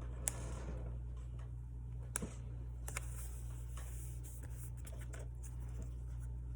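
Scattered small clicks and a brief rustle of paper and stationery being handled at a desk, over a steady low hum.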